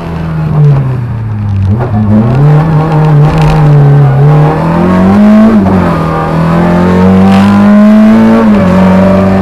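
Lada 2107 rally car's 1.6-litre Béreš-built four-cylinder engine under hard driving, heard from inside the cabin. Revs fall at first, then climb, dropping sharply at a gear change about five and a half seconds in, then climb again and drop at another change near the end.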